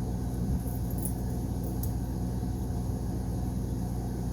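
Steady low mechanical hum, with a couple of faint light ticks about one and two seconds in.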